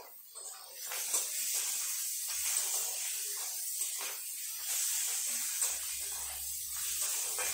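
Sliced onion and green chillies sizzling in hot oil in a metal kadai, a steady hiss that starts up at the beginning. A spatula stirs them, clicking against the pan now and then.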